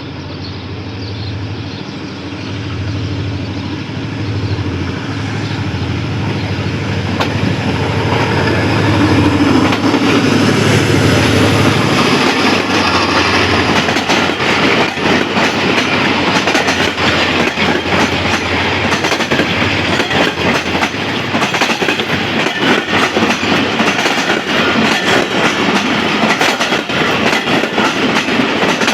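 ZCU-30 diesel-electric locomotive approaching, its engine drone growing louder. About twelve seconds in it passes, and the passenger coaches rush by with a rapid, continuous clickety-clack of wheels over the rail joints.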